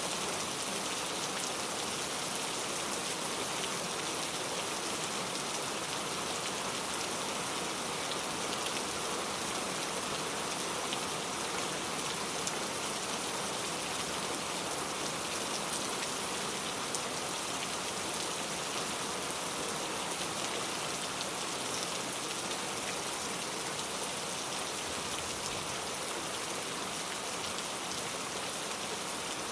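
Steady rain falling, an even unbroken patter.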